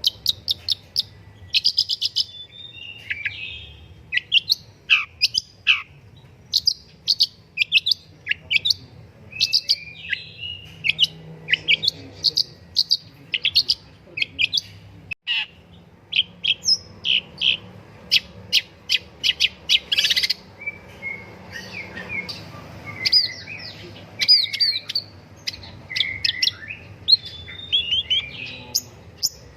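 Long-tailed shrike (pentet) singing a fast, varied chattering song of short, sharp high notes, some sliding downward, broken by a momentary dropout about halfway.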